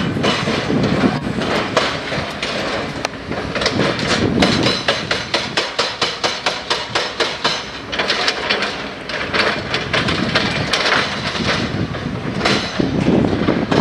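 Railway construction machinery working, with a run of rapid, regular metallic clanks, several a second, in the middle of the stretch over steady mechanical noise.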